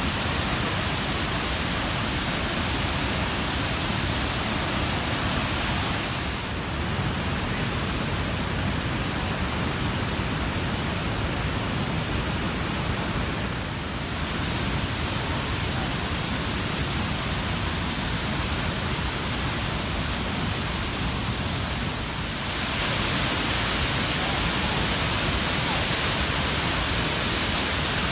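Steady rushing of a large waterfall, its tone shifting abruptly three times.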